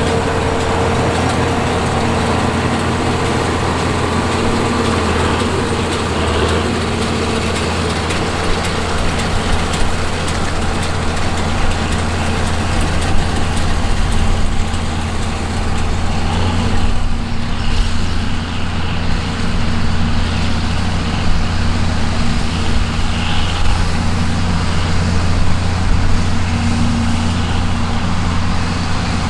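John Deere 4430's turbocharged six-cylinder diesel running steadily under load while it pulls a round baler baling hay. The higher part of the sound thins out a little past halfway.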